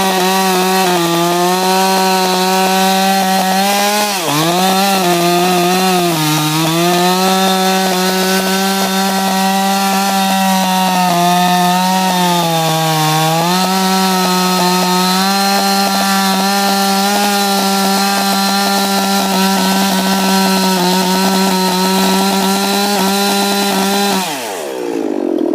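Ported Husqvarna 357 XP two-stroke chainsaw running at full throttle while cutting into a peeled white pine log, its pitch dipping a few times as the chain loads up in the cut. Near the end the throttle is let off and the engine winds down.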